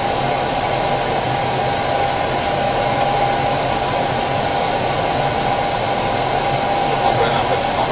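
Steady cockpit noise of an Airbus airliner descending on approach: an even rush of airflow and ventilation with a thin steady whine over it.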